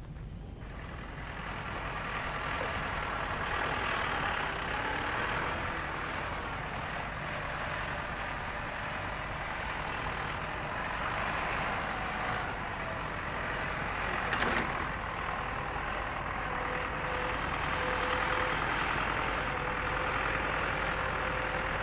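Massey Ferguson 600 series tractor's Perkins diesel engine running as the tractor drives. The noise builds up about a second in and then stays steady, with a single sharp knock about two-thirds of the way through.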